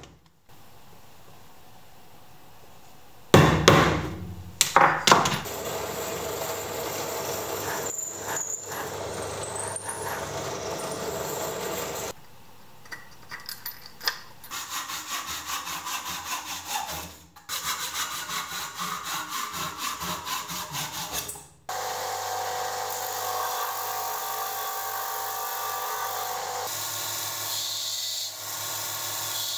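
Woodworking sounds in short cut-together stretches: a few loud knocks, then hand-sawing of wood in rapid, regular strokes, and a steady, even-pitched machine sound through the last third.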